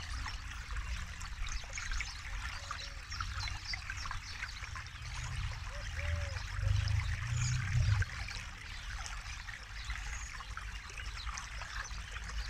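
Forest river flowing over stones, a steady babbling and trickling of water, with a low rumble swelling for a few seconds in the middle.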